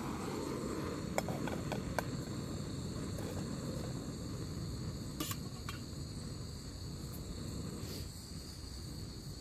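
Crickets chirping in a steady high trill over a low, even rushing noise, with a few sharp clicks.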